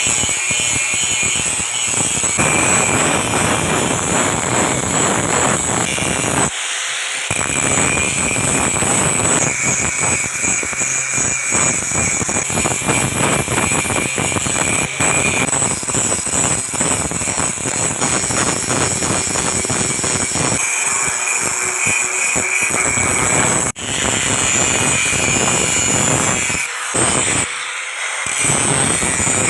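Loud, continuous power-tool noise with a steady whine, as of a grinder working steel, broken by a few short pauses.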